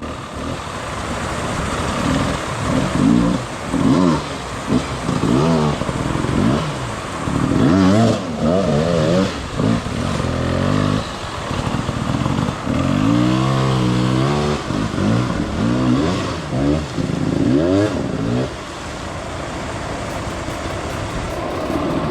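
Beta dirt bike engine revved up and down again and again in short bursts, then running lower and steadier near the end.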